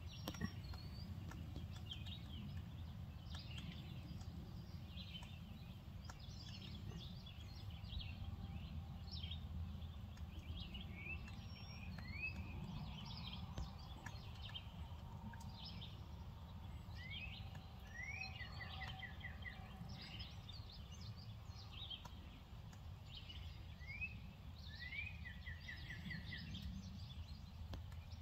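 Faint outdoor ambience of small birds chirping and singing in short rising notes and quick trills, over a steady low rumble of wind on the microphone.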